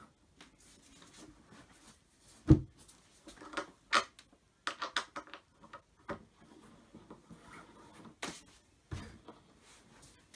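Knocks and clicks from handling the wooden panels and fittings of a flat-pack cupboard during assembly, irregular, with one loud thump about two and a half seconds in and a quick run of clicks around five seconds.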